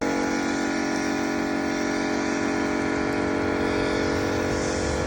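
Steady mechanical motor hum holding one pitch, with no rise or fall.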